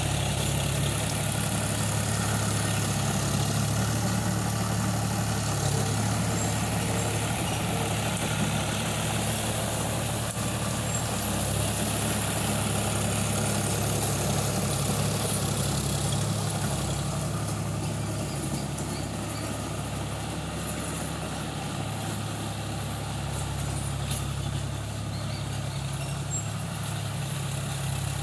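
Tractor engine running steadily with a low, even hum, becoming a little quieter a bit past halfway.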